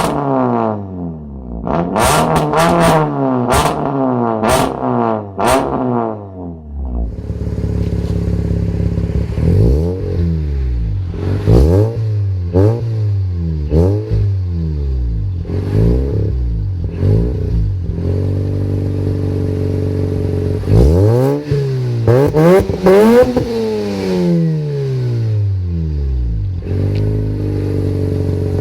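Car engines with loud aftermarket exhausts revved repeatedly from idle, each rev rising and falling in pitch. In the first part, sharp pops and crackles come off the exhaust between revs. About seven seconds in it changes to another engine idling steadily between blips, with a few quick double revs past the middle.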